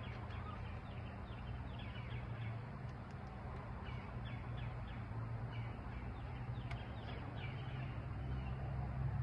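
Birds chirping over and over in short, quick falling calls, over a steady low hum.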